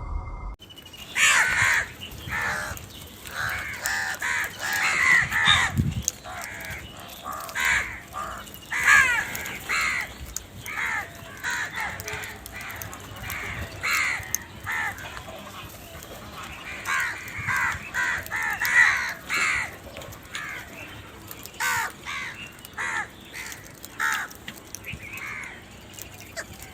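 Crows cawing over and over, harsh caws repeating one to two a second with some calls overlapping.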